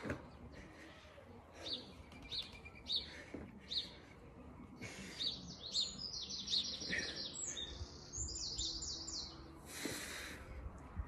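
Small birds chirping, with runs of fast repeated high notes in the middle.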